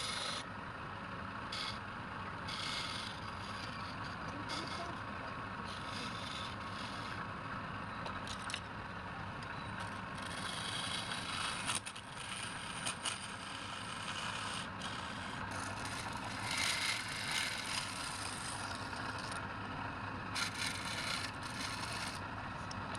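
Wood lathe motor running steadily while a turning tool is pressed against the spinning wood again and again, each pass a short, harsh scraping hiss.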